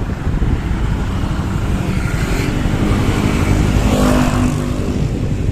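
Motor vehicle engine rising and then falling away over about two seconds near the middle, likely a vehicle passing, over a steady low rumble of traffic and wind.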